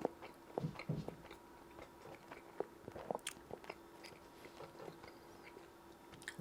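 A person chewing a big, saucy burger close to the microphone: soft wet mouth clicks and smacks scattered throughout, over a faint steady hum.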